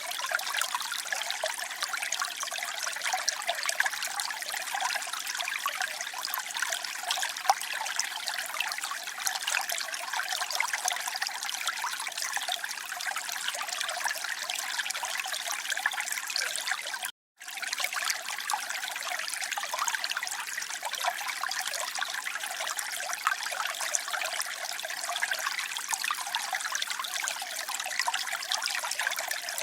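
Running water trickling and splashing steadily, a dense, bright hiss with little low end. About seventeen seconds in it cuts out completely for a split second, then resumes unchanged.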